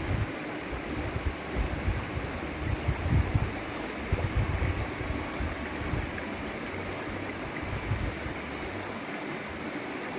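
A woodland stream flowing, a steady rushing of water, with wind buffeting the microphone in low gusts during the first half.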